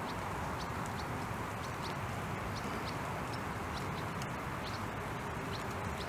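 Steady rain noise outdoors, with scattered short, high-pitched ticks a few times a second.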